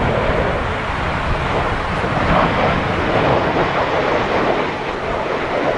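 Jet airliner engine noise, a steady rushing that swells slightly in the middle, mixed with gusty wind buffeting the microphone.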